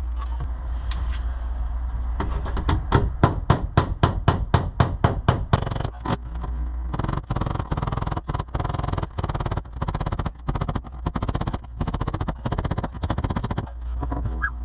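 A quick run of sharp knocks, four or five a second, starting about two seconds in, then a longer stretch of short, regular bursts about two a second, over a steady low hum.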